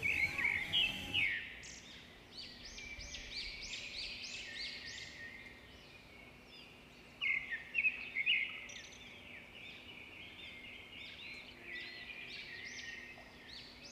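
Birds chirping and singing: a busy run of short, quick chirps, loudest at the start and again around seven to eight seconds in.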